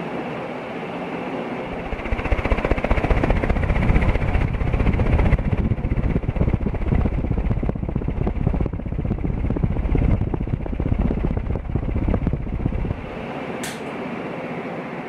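Canarm Pleasantaire CP56T industrial ceiling fan running with a steady whirring hum. From about two seconds in, a louder, uneven low rumble rides on top and cuts off suddenly near the end, followed by one brief click.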